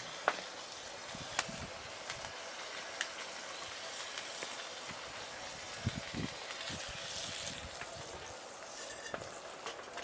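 Cooking over a small wood fire: a steady sizzling hiss with scattered sharp crackles and pops.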